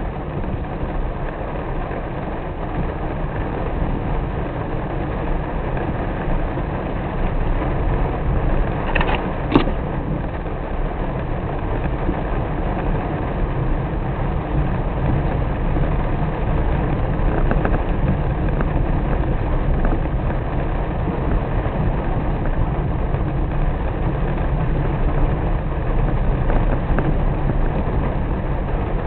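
Steady rumble of a car driving in heavy rain, engine and wet-road noise under a hiss of rain. A sharp click comes about ten seconds in.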